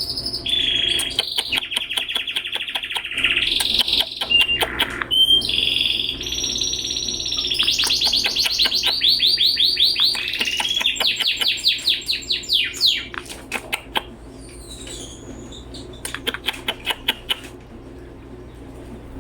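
Canary vocalizing: about thirteen seconds of high trills, buzzy held notes and fast rattling runs of repeated notes, then quieter scattered short clicks.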